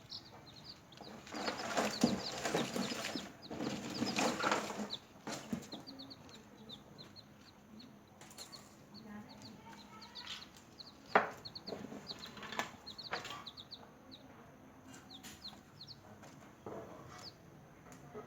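Newly hatched chicks peeping: many short, high, falling peeps in quick succession. A loud patch of rustling and scratching runs through the first few seconds, and there is a sharp tap about eleven seconds in.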